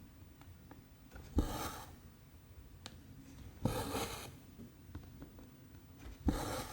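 Cotton embroidery thread drawn through 14-count cross-stitch canvas: three stitches about every two and a half seconds, each a sharp tick as the needle goes through, then a short rasp as the thread is pulled tight.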